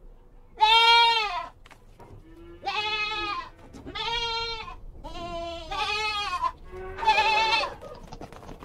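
Domestic goat bleating, about six separate calls of under a second each, the first the loudest.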